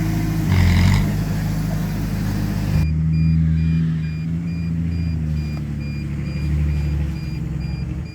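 Heavy diesel engine of earthmoving machinery running steadily under load. About three seconds in the sound changes abruptly, as at an edit, and after that a faint, evenly pulsing high tone sits over the engine.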